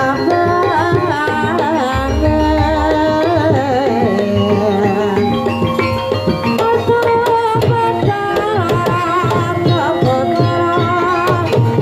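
Javanese gamelan music accompanying a kuda kepang (ebeg) dance, with kendang hand-drum strokes under held and wavering melodic lines.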